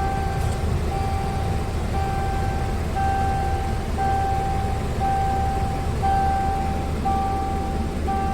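Scania P truck's diesel engine running with a low steady rumble, while a high electronic warning beeper sounds in long tones broken about once a second.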